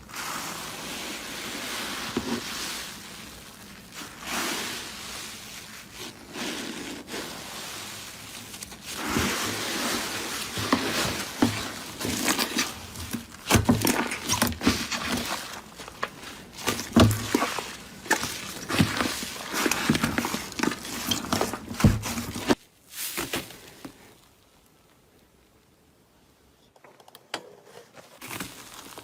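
Hands squeezing and crushing a crackly, squishy material, with dense crackles and sharp pops that grow louder partway through. The sound stops suddenly near the end and, after a short quiet gap, starts again.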